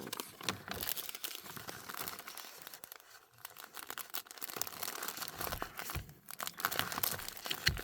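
Plastic packaging of a diamond painting kit crinkling and rustling as it is handled, in irregular bursts with brief lulls.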